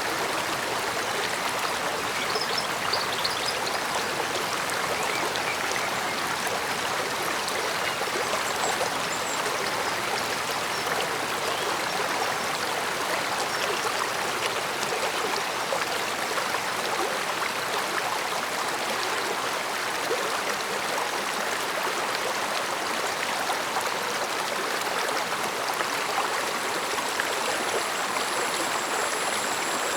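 Mountain stream flowing steadily, an even, continuous rush and murmur of water.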